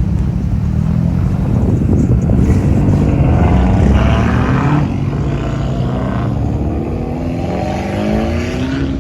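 A car engine running loud, its pitch rising steadily over the last few seconds as it accelerates.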